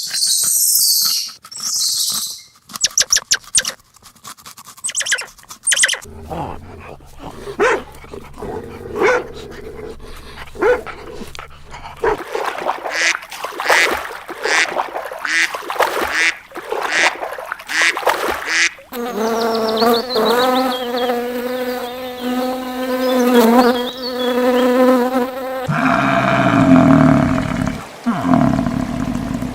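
A series of different animal calls and noises, each lasting a few seconds before the next: sharp clicks, repeated short calls, and a long steady pitched call with many overtones.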